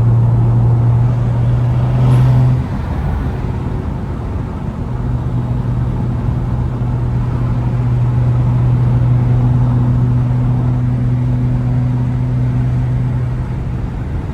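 Straight-piped BMW N55 turbocharged inline-six in a 335i, running at a steady engine speed with a constant low drone. The drone drops off about two and a half seconds in, then builds back from about five seconds in and holds steady.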